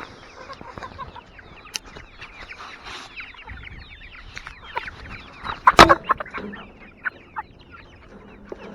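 A flock of chickens clucking and chirping in a steady run of short, quick calls, with one louder squawk about six seconds in.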